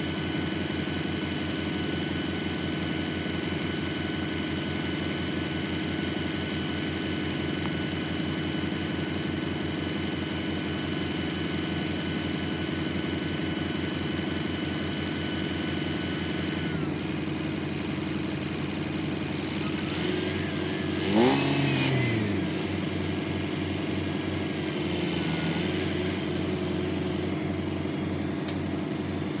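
Diesel engine running steadily, with a brief louder surge of changing pitch about two-thirds of the way through.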